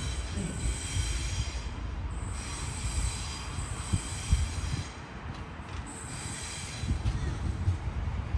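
Sydney Trains B-set (Waratah Series 2) electric train pulling in: a steady low rumble with several high steady tones that fade in and out.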